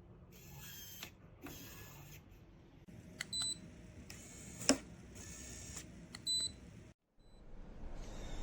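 Two short, high electronic beeps about three seconds apart, among light clicks and handling noise, with one sharper click near the middle, typical of appliances and a remote responding to button presses.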